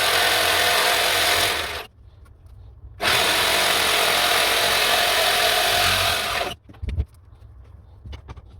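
Power tool working wood, run in two bursts of about two and three and a half seconds, followed by a single knock.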